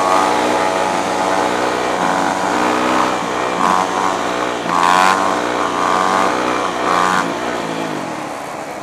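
Dirt bike engine accelerating hard and shifting up through the gears, its pitch climbing and dropping several times, with wind rushing over the microphone. It eases off near the end.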